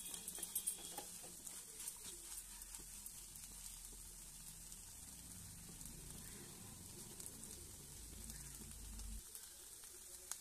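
Faint sizzling of ragi upma frying in a nonstick pan as it is stirred and turned with a wooden spatula, with soft clicks and scrapes of the spatula, most of them in the first two seconds. A low hum stops about nine seconds in.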